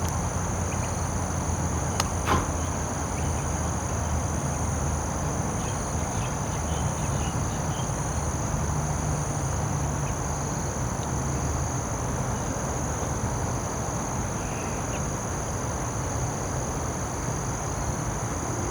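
Evening insect chorus, crickets giving a steady high-pitched trill, over a low steady rumble. Two brief clicks about two seconds in.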